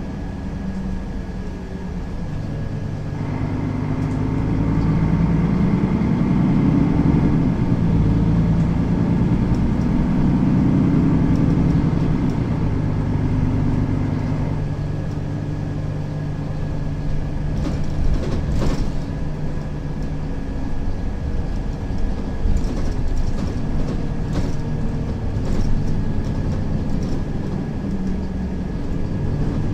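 Mercedes-Benz Citaro facelift city bus's diesel engine, heard from inside the cabin, picking up under load a few seconds in and working hard for about ten seconds as the bus accelerates, then easing into steadier running. A steady high whine sounds throughout, and a few short knocks and rattles come in the second half.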